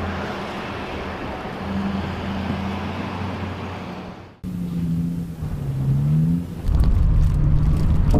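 A motor vehicle's engine runs with a steady low drone under a rushing noise. About four seconds in, the sound cuts abruptly to another engine whose pitch glides up, followed by heavy low wind buffeting on the microphone.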